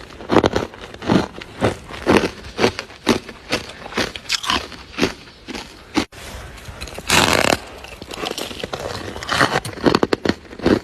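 Freezer frost being chewed close to the microphone: crisp crunches about two a second, with a longer, louder crunch about seven seconds in.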